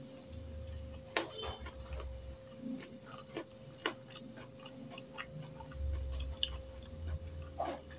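Close-up eating noises: a person chewing rice and fried tempe eaten by hand, with irregular sharp smacks and clicks of the lips and mouth. A steady high insect chirring runs underneath.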